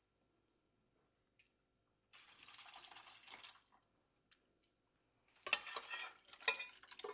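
A soft scraping rush about two seconds in as food is stirred in a cooking pot, then a metal spoon clattering and clinking against the pot near the end.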